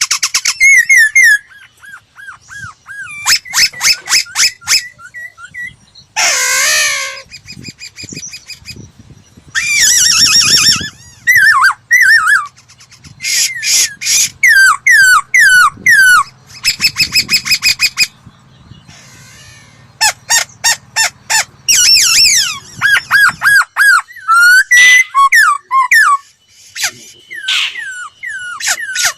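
Laughingthrush singing a loud, varied song. Clear whistles slide downward in repeated series, mixed with fast rattling runs of notes and a harsh burst of a call about six seconds in.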